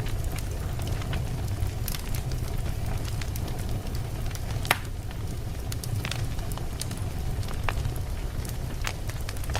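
Campfire burning, with scattered sharp crackles and pops from the burning wood over a steady low rumble. One louder pop comes about halfway through.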